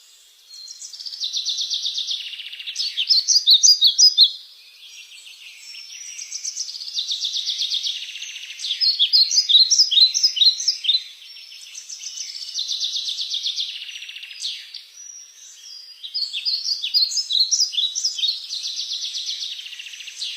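A songbird singing the same song three times, about six seconds apart: each song is a rapid trill lasting about two seconds, followed by a louder run of quick sweeping notes.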